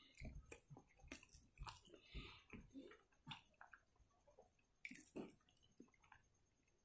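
Faint, close-miked chewing with irregular wet clicks and smacks of the mouth, as a hand-eaten mouthful of rice and pork is eaten.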